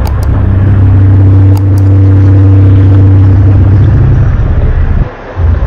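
Loud, low moaning drone of a reported 'strange sky noise', a steady deep tone with overtones. It breaks off briefly about five seconds in, then comes back.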